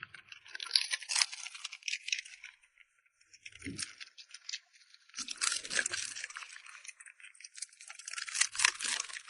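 Corgi-cross dog eating close to the microphone: bursts of wet crunching and smacking clicks, in three spells with short pauses, and a few dull low thumps.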